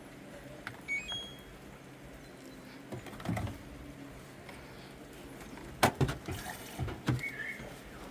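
Washing machine being set going: a couple of short electronic beeps from its control panel about a second in, then a thump and a run of sharp clicks and knocks near the end.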